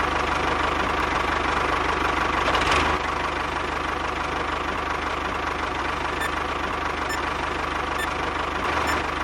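A small engine running steadily at idle, with a fast, even chugging beat; it eases slightly about three seconds in.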